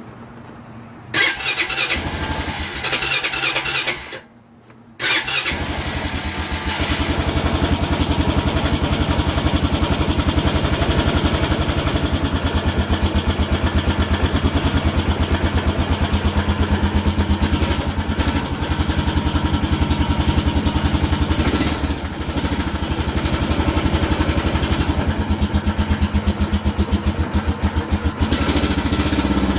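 A 2008 Honda Foreman ATV's single-cylinder engine on a choked cold start: it cranks for about three seconds without running, stops briefly, then catches about five seconds in and keeps running with a steady, even beat.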